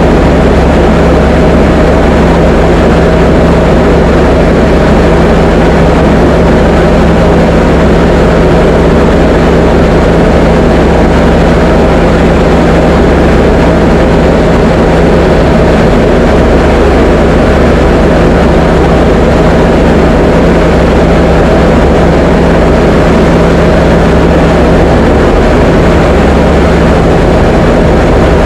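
Diamond DA20 light aircraft's piston engine and propeller running at a steady, unchanging power setting in flight: a loud, constant drone.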